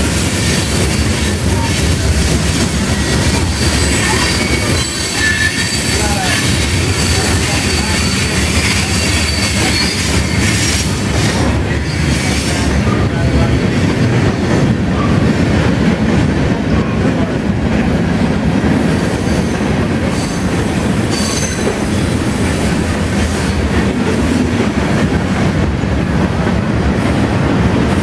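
Freight cars of a mixed train (covered hoppers and autoracks) rolling past close by: a steady, loud rumble and rattle of steel wheels on the rails, with a faint high wheel squeal for a few seconds near the start.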